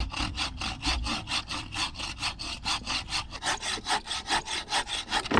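A hand saw cutting through wood with rapid, even back-and-forth strokes, about six or seven a second.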